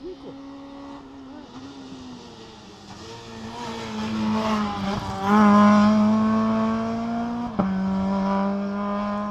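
Rally car's engine at high revs, approaching and passing hard. The engine note grows louder to a peak about five and a half seconds in, with sharp brief drops in pitch near five and seven and a half seconds in, then cuts off suddenly at the end.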